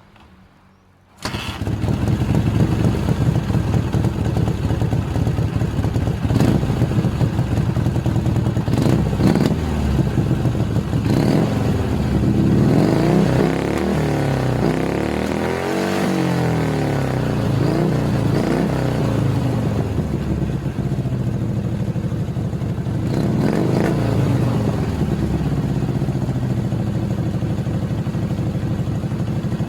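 Dnepr motorcycle's flat-twin engine running through Izh motorcycle mufflers, coming in about a second in, then revved up and down several times with the exhaust note rising and falling, and settling back to a steady run near the end.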